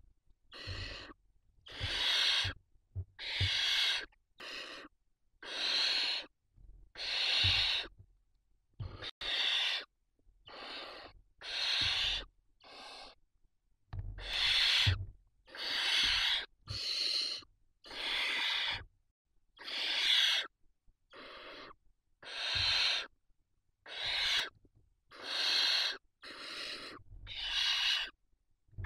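Barn owl chicks making their hissing, snore-like begging calls: rough hisses repeated about once a second, varying in loudness.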